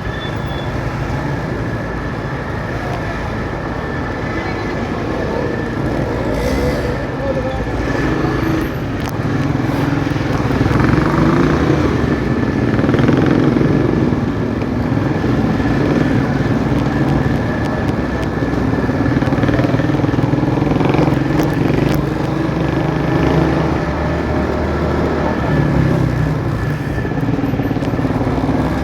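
Motorcycle engine running while riding, with road noise; the engine note rises and falls as the throttle changes.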